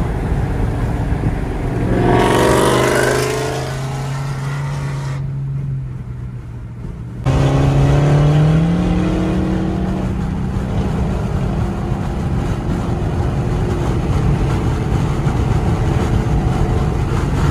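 Loud car engine revving and accelerating. The pitch climbs about two seconds in, and again after a sudden jump in loudness at about seven seconds, then the engine holds a steady drone.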